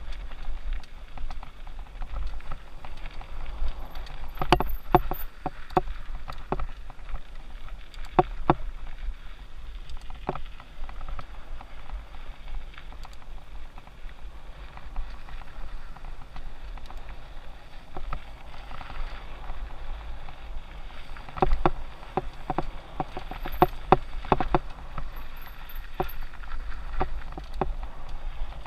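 Mountain bike riding down a dirt trail: a steady crunch and rattle of tyres on the ground with low wind rumble, broken by clusters of sharp knocks and clatter as the bike hits bumps and rocks, about four to six seconds in, around eight and ten seconds, and again from about 21 to 25 seconds.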